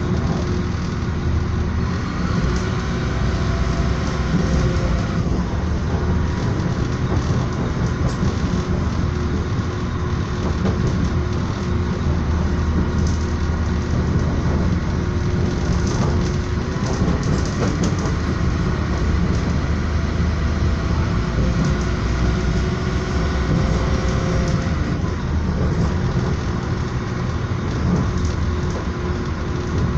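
Steady rumble and rush of a passenger train running along the track, heard from inside the carriage, with faint steady whining tones over the noise.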